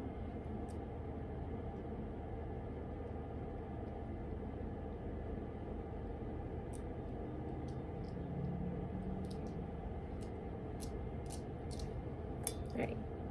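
Steady low room hiss and hum with a few faint clicks, and one sharper click near the end.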